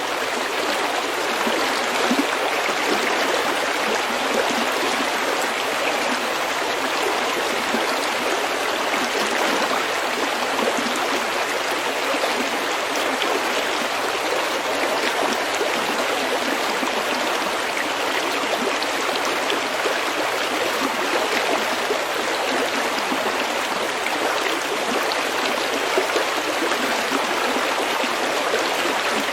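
A shallow stream running steadily over pebbles, a continuous even babble and gurgle of water.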